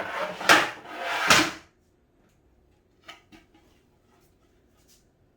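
Cat-tower panels and packaging scraping and sliding against each other as they are lifted and shifted in the box: three loud sweeps in the first second and a half, then a few light knocks.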